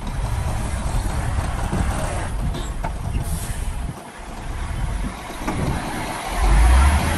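Heavy diesel engine of earthmoving machinery running with a deep rumble, with a short hiss about three seconds in. It dips briefly and then swells to its loudest near the end.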